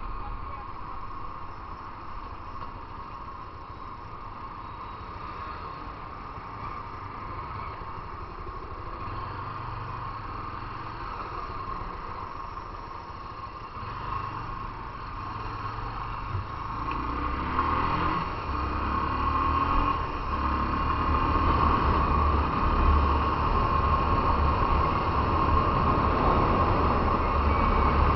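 Motorcycle engine running quietly in slow traffic, then accelerating from about 17 seconds in with a rising engine note, and running louder at speed for the rest.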